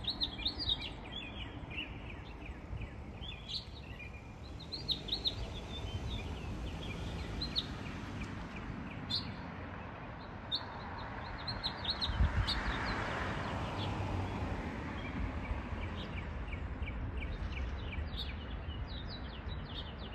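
Many small songbirds chirping, with quick short chirps overlapping throughout over a low background rumble. About halfway through, a broad hiss of noise swells up, then fades.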